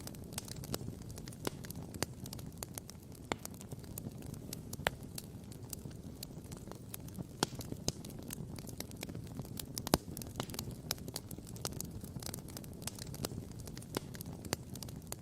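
Wood campfire crackling, with frequent irregular sharp pops over a steady low rumble. The loudest pop comes about ten seconds in.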